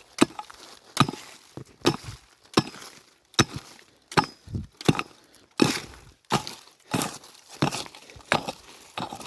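Hand digging tool striking into stony soil over and over, a steady chop about every three quarters of a second, as a hole is dug deeper toward a buried metal-detector target.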